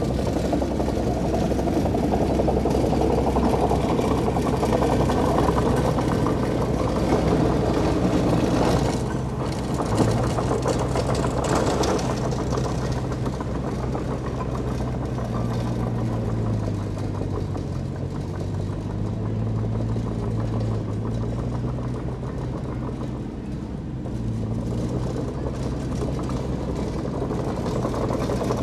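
Diesel engines of heavy earthmoving machinery working, the engine note rising and falling with load, with a single knock about ten seconds in.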